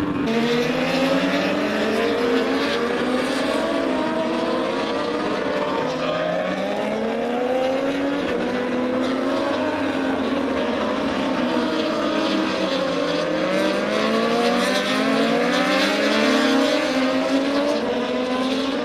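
Racing motorcycle engines at high revs, several at once, their pitch repeatedly rising and falling as they accelerate and shift.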